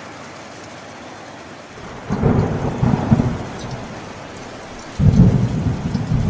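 Steady rain with two rumbles of thunder: the first starts about two seconds in and fades, and the second starts about a second before the end.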